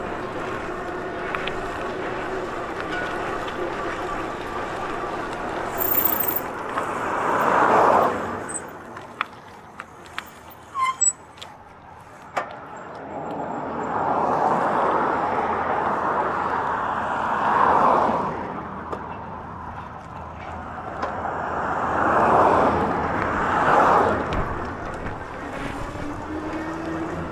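Road traffic: several vehicles pass in turn, each a rush of noise that swells over a few seconds and then falls away, with a few sharp clicks in a quieter gap in the middle.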